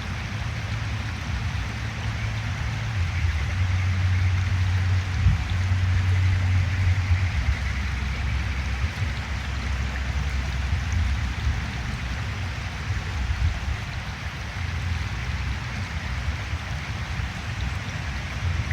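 Mountain stream rushing steadily over rocks, an even hiss of running water over a low rumble.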